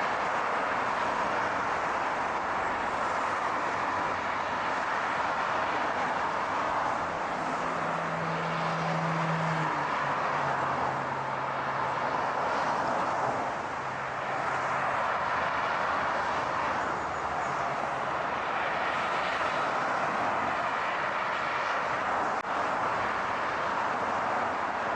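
Steady car road noise, an even rushing that runs on without a break. A low hum joins it about seven seconds in, drops in pitch a few seconds later and fades out near eighteen seconds.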